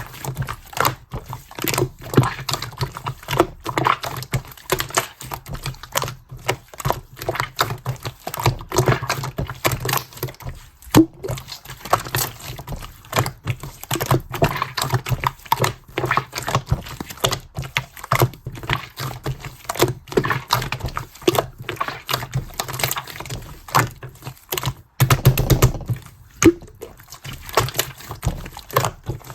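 Hands squishing, folding and stretching clear slime: a dense, irregular run of sticky clicks and small air-bubble pops, with a louder, duller squelch near the end.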